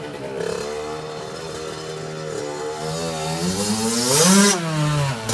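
KTM 65 SX's small two-stroke single-cylinder engine running, its speed creeping up, then revved once about four seconds in before dropping back.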